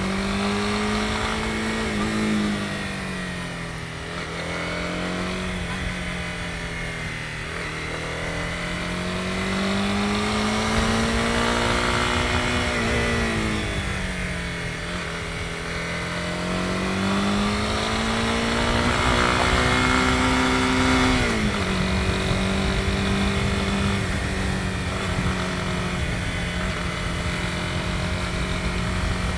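Honda CB250R's single-cylinder engine running under way, its revs rising and falling several times as the throttle is opened and closed. The pitch drops abruptly about two-thirds of the way through and then holds steady.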